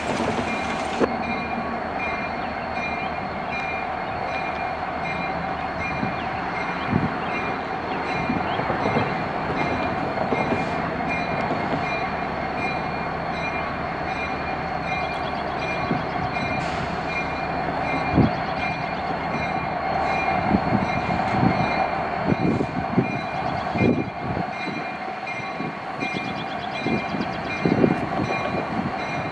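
Train cars rolling past on steel rails: a steady rolling noise with irregular clanks and knocks as the wheels cross rail joints, and a thin, steady high squeal from the wheels.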